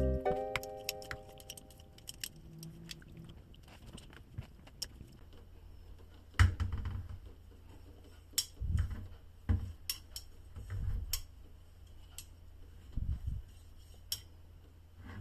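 Metal parts clinking and knocking as they are handled, with scattered light clicks and several dull thumps.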